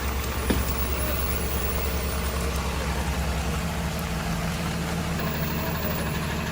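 Truck's diesel engine running steadily, with a low hum that shifts up in pitch about five seconds in and a single click about half a second in.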